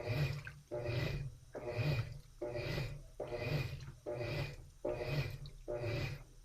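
Top-loading washing machine with a central agitator agitating the wash: rhythmic strokes a little more than once a second, each a motor hum with water swishing, with a short pause between strokes.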